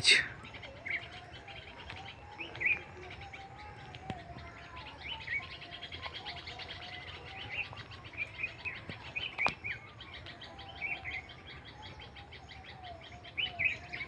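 Wild birds chirping in scattered short calls, with a fainter wavering call lower down. There is one sharp click about nine and a half seconds in.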